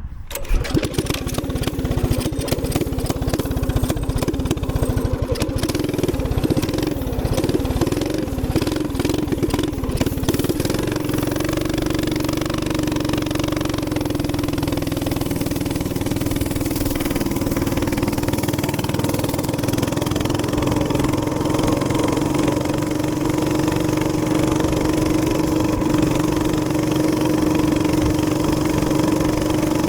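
Small gas minibike engine running under way. It is uneven and mixed with knocking and buffeting for the first ten seconds or so, then settles into a steady drone at constant pitch.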